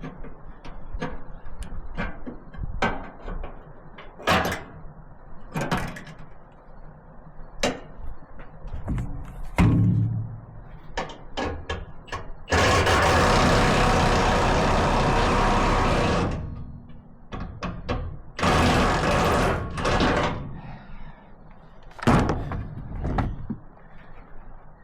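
Scattered knocks and clanks of hands-on work on an old truck. Midway a loud power tool runs steadily for about three and a half seconds, then again for about two seconds.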